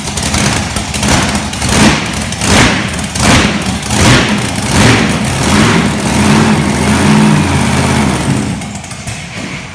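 Monster truck's 540-cubic-inch methanol drag-strip V8 being revved hard in quick repeated blips, about one every three-quarters of a second. It then runs more steadily and falls away near the end.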